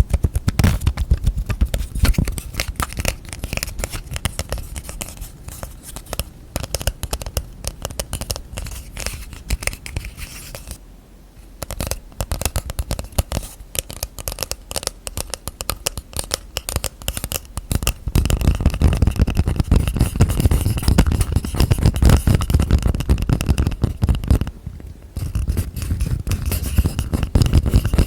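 ASMR hand sounds close to the microphone: quick, continuous fingertip and fingernail tapping and scratching on objects and lids. There are two short pauses, and the sound gets louder and fuller from about two-thirds of the way in.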